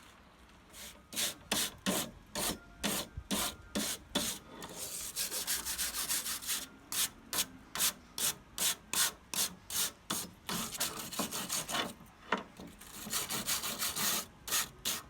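Quick repeated scrubbing strokes, about three a second, with two stretches of continuous rubbing, as caked debris is cleaned off a tractor's clogged radiator air screen.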